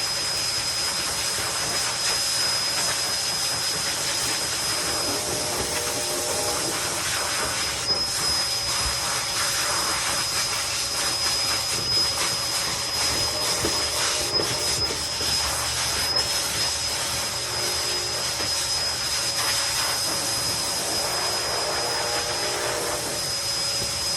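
A steady, loud rushing hiss with a thin high whine running through it, like a small motor or blower running, with faint pitched sounds coming and going over it.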